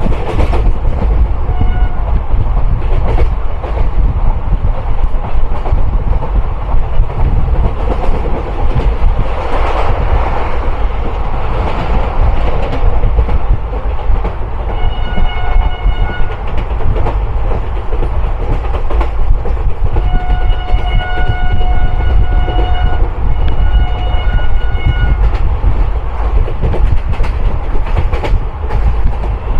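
Indian Railways passenger train running at speed, heard from its open doorway: a steady rumble, the clatter of wheels on the rails, and rushing wind. A horn sounds briefly near the start, again about halfway through, and in a longer blast of several seconds about two-thirds of the way in.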